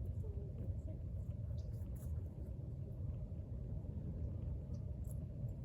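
Steady low rumble with a few faint, brief ticks.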